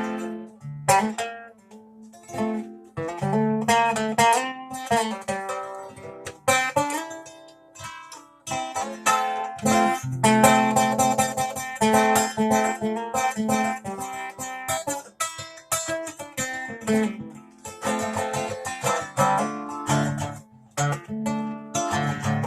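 A plucked string instrument played by hand, mixing strummed chords and picked notes that ring and fade, with a few brief breaks in the playing.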